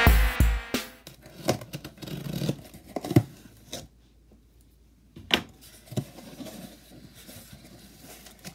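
Intro music ends with low thumps in the first second. Then hands open a cardboard shipping box, with scattered rustles, scrapes and a few sharp clicks from the cardboard flaps and packing, and a short pause near the middle.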